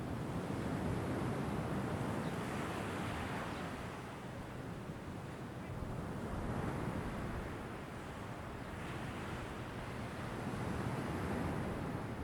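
Ocean waves washing ashore, the surf rising and easing in three slow swells, with wind buffeting the microphone.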